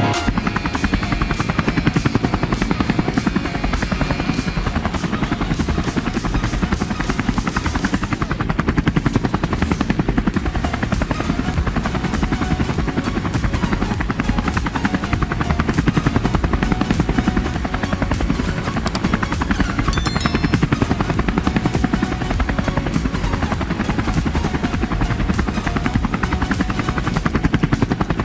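Small drone motor spinning a toy helicopter's propeller, a fast steady flutter.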